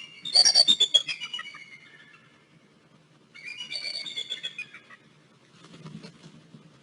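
Bald eagle calling: two bouts of high, rapid chittering notes that slide down in pitch, the first the loudest, with a fainter bout near the end.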